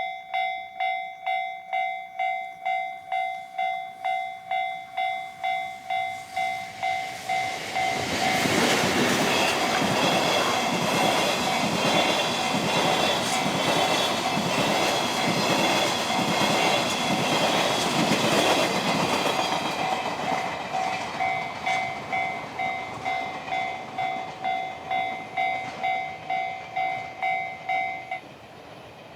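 Japanese level-crossing alarm ringing a steady electronic ding-ding, about two strokes a second. From about eight seconds in, an ED75 electric locomotive hauling a long-rail train of chiki flatcars passes over the crossing with loud wheel noise and rhythmic clacking for about twelve seconds. The alarm rings on after the train has passed and cuts off suddenly near the end.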